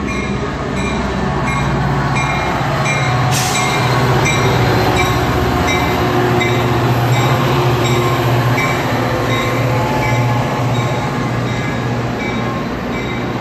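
Metra commuter train, a diesel locomotive hauling bi-level gallery coaches, moving past the platform: a loud, steady low engine drone over wheel-on-rail rumble, with faint regular clicks of wheels over the rails. A brief sharp hiss comes about three seconds in.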